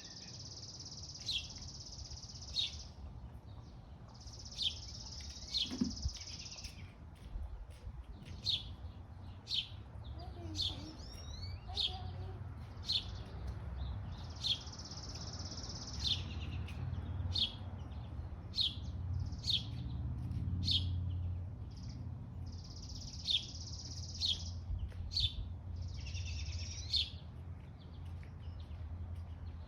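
Songbirds singing: short, sharp high chirps about once a second, broken by long high buzzy trills of two to three seconds each. A steady low rumble runs underneath.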